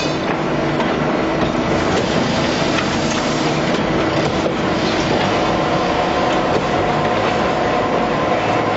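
Truck-mounted concrete mixer pump running: a steady engine drone with continuous mechanical clatter.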